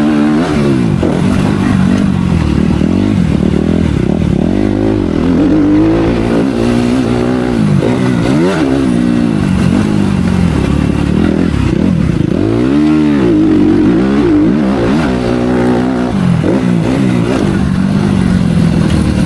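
Motocross motorcycle engine revving hard and easing off again and again through a lap. About thirteen seconds in, the revs climb sharply and fall back.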